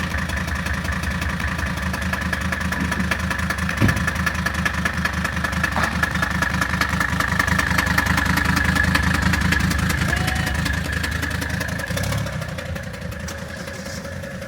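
Newly swapped-in 1984 Mercedes OM617 turbocharged in-line five-cylinder diesel idling steadily, with a fast even diesel clatter and a steady high tone over it; it eases slightly near the end.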